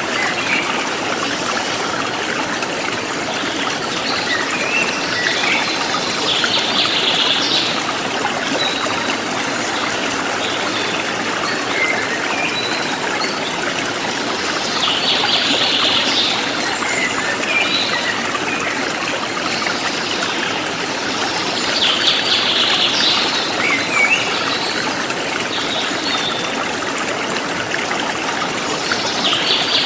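Forest stream flowing steadily, with birds singing short phrases every several seconds, about four times, over the running water.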